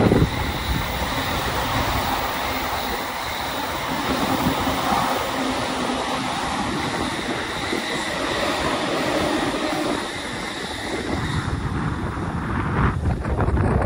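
Train passing on the tracks below: a steady rush of wheel and rail noise with a faint high whine, easing off about eleven seconds in. Wind buffets the microphone near the end.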